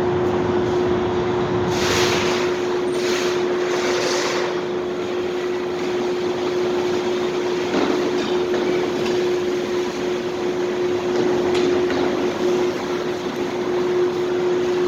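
Steady ambient noise of a supermarket parking garage: a constant wash of hum with one held tone running through it. A few brief swells of hiss come about two to four seconds in.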